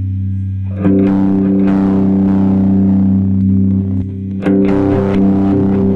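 Electric guitar played through an effects pedal into a miked Fender Deluxe Reverb amp, with sustained, ringing chords. New chords are struck about a second in and again past the middle.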